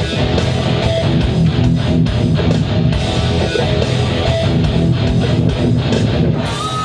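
Loud electric guitar music: a metal riff playing steadily, dense with many notes at once.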